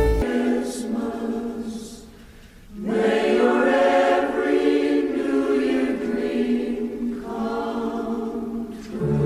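Background music: a choir singing long held chords with no bass underneath, dipping briefly about two seconds in and then swelling back.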